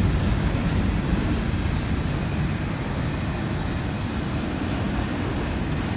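Freight train's autorack and covered hopper cars rolling past, a steady rumble of steel wheels on the rails.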